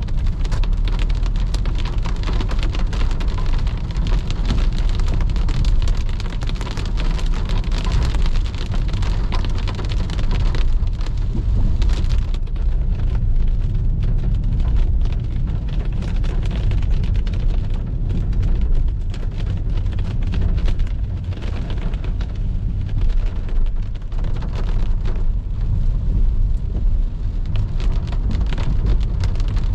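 Rain hitting a moving car, a dense patter of drops over a steady low rumble of the car on wet road.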